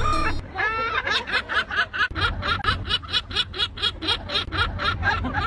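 A bird giving a rapid chattering call: a long run of short, even notes at about five a second.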